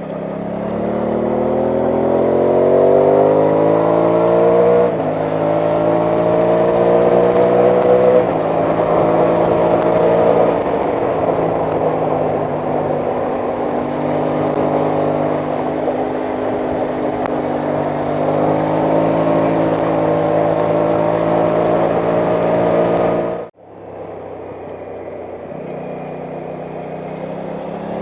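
Aprilia Tuono 660 parallel-twin engine pulling hard through the gears, its pitch rising and stepping down at two upshifts, then holding a steady cruise before rising again. The engine sound drops away abruptly near the end. Wind rush runs under it throughout.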